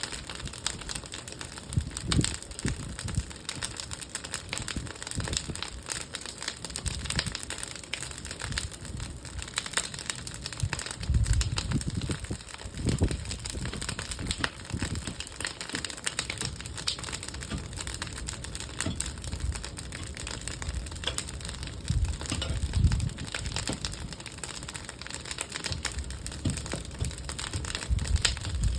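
Bonfire of old wooden pallets crackling and popping steadily, with a few louder low rumbles now and then.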